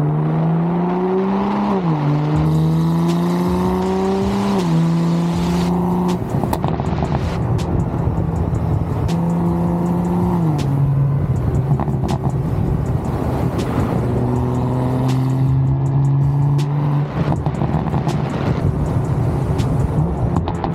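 Car engine and exhaust accelerating through the gears: the pitch climbs in each gear and drops at each upshift, about 2, 4.5 and 10.5 seconds in. Between pulls the exhaust pops and crackles off throttle, around 6 to 8 seconds in and again around 16 to 17 seconds in.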